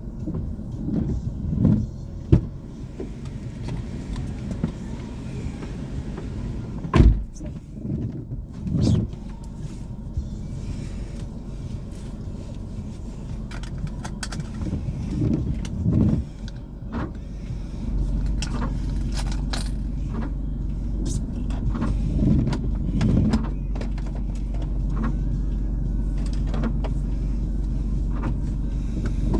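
Car cabin sound picked up by a dashboard camera: a low engine and road rumble with scattered knocks and clicks, the loudest about a quarter of the way in. The rumble steps up and holds steadier for the last third.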